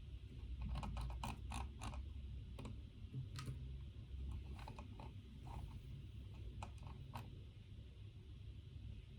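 Small clicks and creaks of someone working at a desk: a quick run of them about a second in, then scattered single ones, over a low steady hum.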